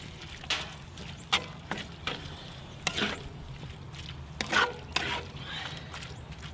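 Ground beef frying in a cast-iron skillet, stirred with a spatula: a steady sizzle under several short scrapes of the spatula against the pan.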